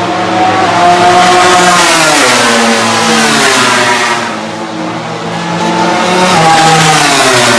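MotoGP racing motorcycle engines at high revs, loud, the pitch rising and falling twice as bikes accelerate and slow on the circuit.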